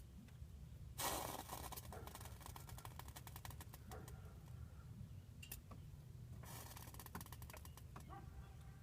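Hissing with rapid crackling ticks from a new Ford F-150 FX4, heard over a steady low hum. It starts about a second in and lasts about three seconds, then comes back for about a second near the end. The owner is unsure whether this burning/hissing sound is normal.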